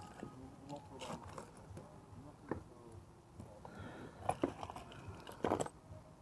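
Faint background voices of people talking, with a few short sharp knocks or clicks; the loudest comes near the end.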